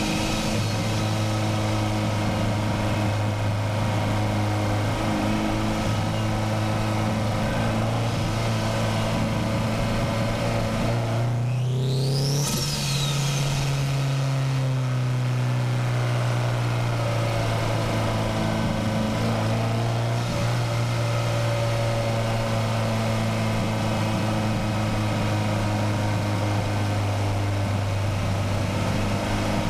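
Turbocharged Nissan SR20DET four-cylinder engine in a Miata running under steady throttle on a winding road, its pitch rising briefly about twelve seconds in and easing back down, with a short high whistle as it does.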